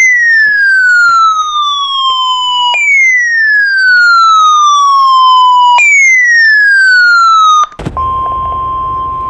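Three loud siren-like falling sweeps, each about three seconds long. About eight seconds in, they give way to the steady 1050 Hz NOAA Weather Radio warning alarm tone, heard over radio static.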